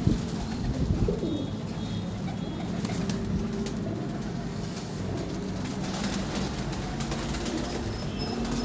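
Pigeons cooing in low, wavering tones, with scattered short sharp sounds; the loudest moments are at the very start and about a second in.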